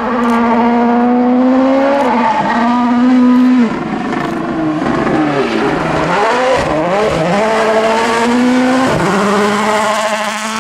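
World Rally Car's turbocharged engine running hard on a stage, its pitch climbing and then dropping at each gear change. Near the middle the note falls away, tangles and climbs again as the car slows and accelerates.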